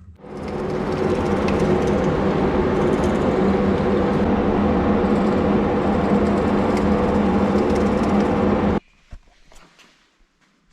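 An electric power tool motor starts with a click, spins up over about a second, and runs steadily at a loud, constant pitch before cutting off suddenly near the end.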